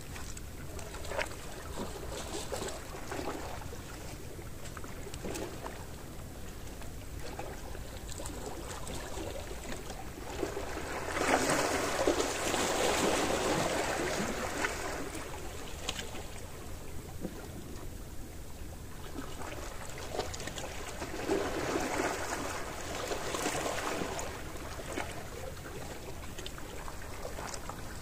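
Gentle sea waves washing onto the shore, with two louder surges of wash, one about eleven seconds in and one about twenty-one seconds in, over a steady low rumble.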